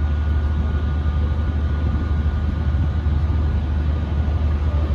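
Steady low machinery drone with a thin constant whine above it, typical of a ship's engines or generators running.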